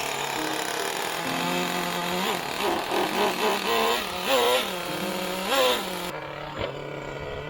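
Two-stroke nitro engine of a Traxxas T-Maxx RC truck running, revved in several short blips that rise and fall in pitch, then settling back to a steadier run near the end.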